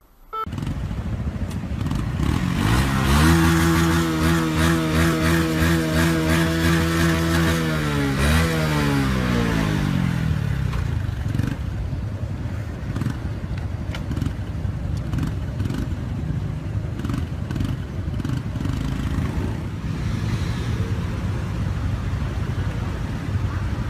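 A motor vehicle's engine runs at a steady pitch for several seconds, then its pitch falls away about eight seconds in. After that comes a steady rushing road noise with scattered clicks.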